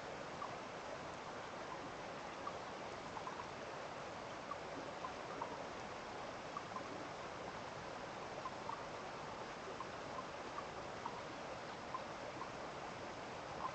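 A small stream of running water flowing steadily, with frequent little plinks and gurgles scattered irregularly over the rush.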